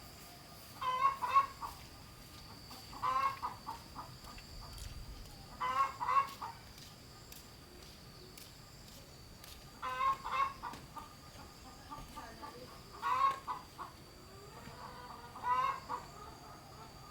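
Chickens clucking in six short bursts spread a few seconds apart, each under a second long, over a faint steady high-pitched tone.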